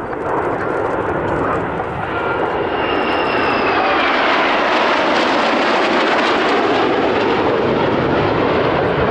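Aircraft flying past, its engine noise swelling over the first few seconds and then holding loud, with a faint high whine sliding down in pitch.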